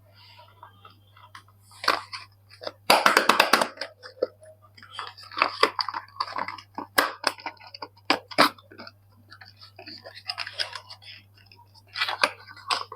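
Bars of soap being unwrapped by hand: the packaging crinkles and crackles in short, irregular bursts, with a quick run of sharp crackles about three seconds in.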